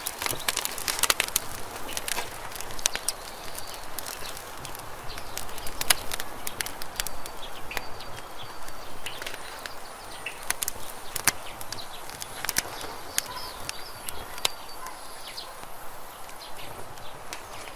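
Wood campfire crackling, with irregular sharp pops and snaps over a soft steady hiss of burning. Faint bird chirps sound in the background.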